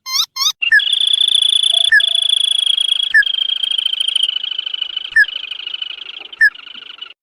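Sintar padi (tikusan) crake calling: a few quick rising notes, then a long steady high trill that fades near the end. Short sharp single notes are repeated every second or so.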